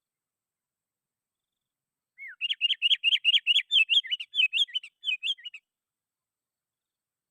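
Sooty-headed bulbul (kutilang) singing a quick run of short, sharp chattering notes, about six a second, for about three and a half seconds, starting a couple of seconds in.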